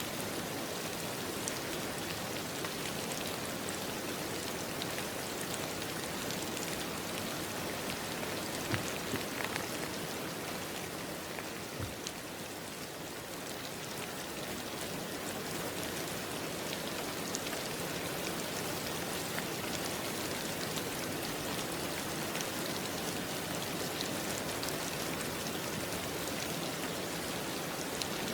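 Steady rain falling, an even hiss with scattered individual drop ticks, easing slightly for a moment about halfway through.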